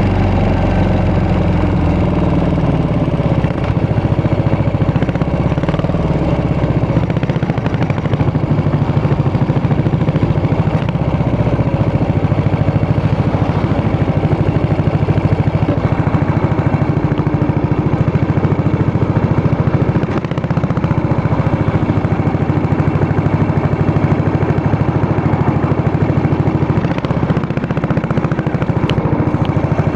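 Yamaha SR400's air-cooled single-cylinder engine running steadily through its exhaust, dipping briefly twice, a few seconds in and again about two-thirds of the way through.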